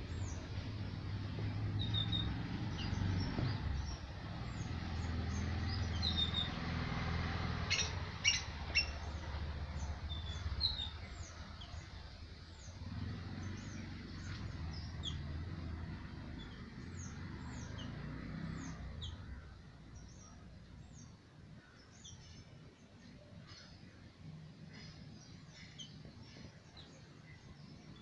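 Small birds chirping: many short, high-pitched chirps that drop quickly in pitch, scattered throughout, over a low rumble that fades about two-thirds of the way through.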